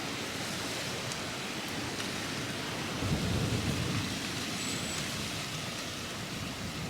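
Steady rushing storm-like noise, with a low rumble about three seconds in.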